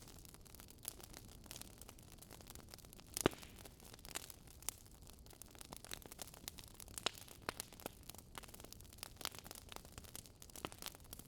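Wood fire crackling: irregular sharp pops and snaps over a soft steady hiss, one pop about three seconds in louder than the rest.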